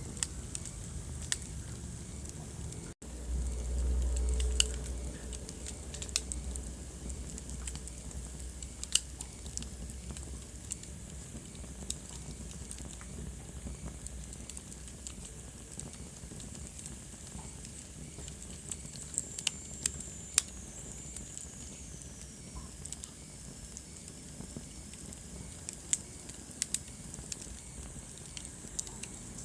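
Wood fire crackling in a fireplace: irregular sharp pops and snaps over a low, steady rumble of the flames. The rumble swells for a couple of seconds near the start, and a faint falling whistle comes through around the middle.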